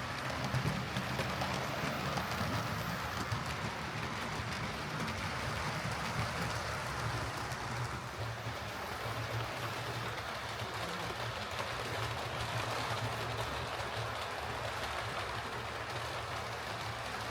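Hornby Class A4 OO gauge model locomotive running steadily on track: a continuous motor hum with the rumble of its wheels on the rails.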